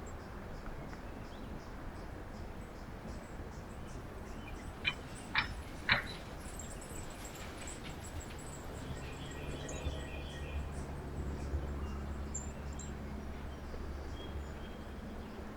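Three short, sharp bird calls about half a second apart, around five seconds in, with fainter high chirps scattered through. From about nine seconds a low steady hum rises under the outdoor background noise.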